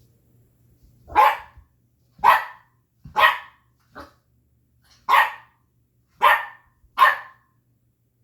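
Puppy barking: six sharp, loud barks roughly a second apart, with a softer one between them.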